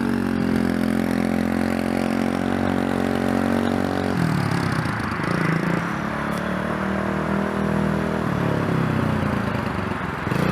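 Dirt bike engine running under throttle: a steady note for about four seconds, then the pitch drops and wavers before climbing again near the end.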